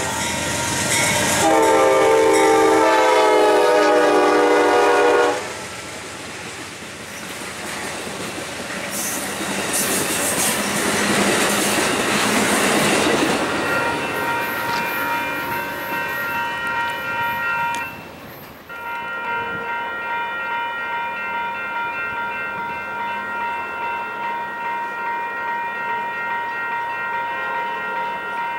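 Amtrak P42DC diesel locomotive sounding its horn in one long blast that cuts off about five seconds in, then the passenger train rushing past. After it has gone, a steady ringing tone with a slight regular pulse carries on, dropping out briefly around the middle.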